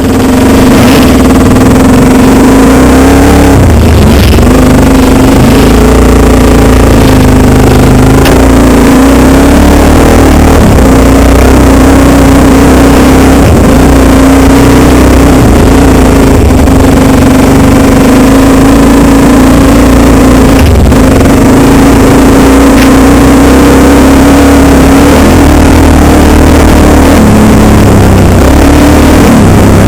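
Dirt bike engine running loud at fairly steady revs, with a few brief drops in revs: about four seconds in, about two-thirds of the way through, and near the end.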